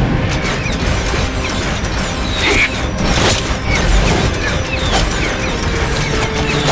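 Animated action-scene soundtrack: music under repeated crashing impacts and mechanical metallic clatter, with heavier hits about three and four seconds in.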